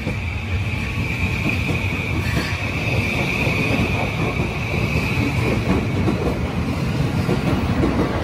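Cars of a Yokosuka Line electric commuter train rolling past along the platform. The wheels clack over the rail joints on top of a steady rumble. A steady high tone fades out about five seconds in.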